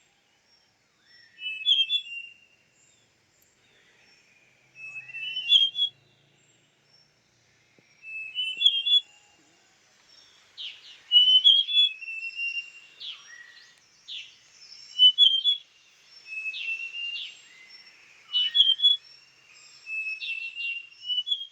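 Large niltava singing: short phrases of clear whistled notes that rise at the end, repeated every few seconds and closer together in the second half. Sharp falling call notes come in between the phrases later on.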